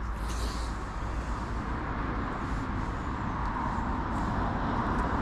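Two-car diesel passenger train approaching, a steady rumble that grows slowly louder.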